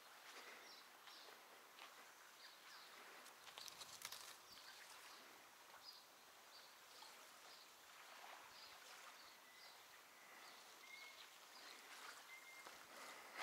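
Faint birdsong: small birds giving short, high chirps again and again, over a soft even hiss. A few light clicks come about four seconds in.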